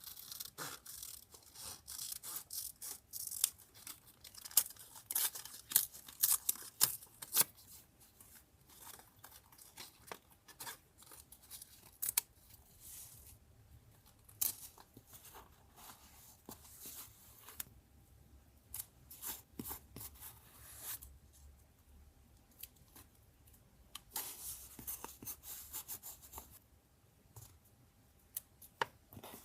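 Paper being torn and handled, in crisp rasping bursts with sharp clicks, busiest in the first eight seconds and again near the end.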